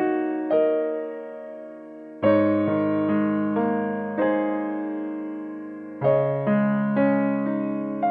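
Soft background piano music: slow chords struck one after another and left to ring out, with a fresh phrase starting about two seconds in and again about six seconds in.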